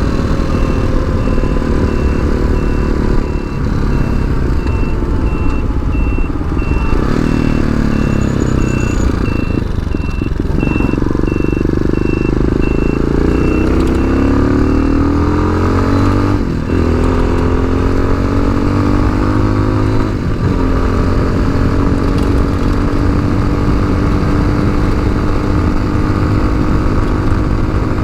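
Tao Tao TBR7 dual-sport motorcycle's single-cylinder engine under way, its note rising and falling as it speeds up and eases off, with short breaks at gear changes, then holding a steady cruise for the last third. A high beep repeats about twice a second through the first half.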